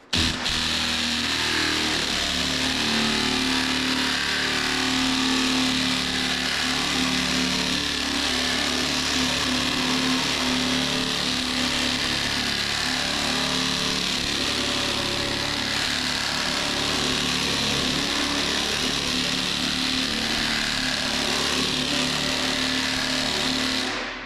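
Long body-work sander running steadily on body filler, a constant hum under a broad hiss, which starts abruptly and stops near the end.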